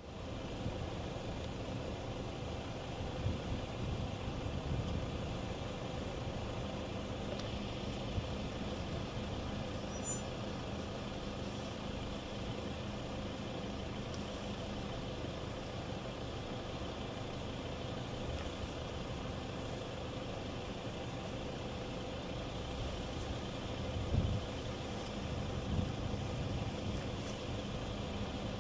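Vehicle engine idling steadily, with a low thump about 24 seconds in.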